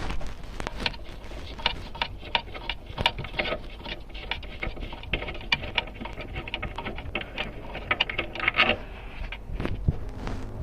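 Irregular clicking and tapping of hand work on a car's rear brake light unit, as it is opened.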